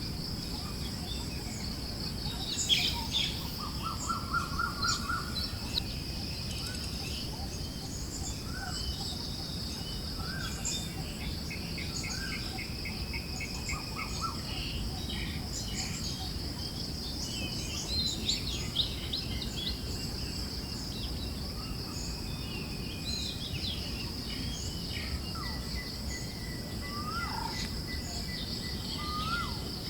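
A forest ambience of many bird chirps and short trills over a steady high insect drone and a low, even hiss of wind.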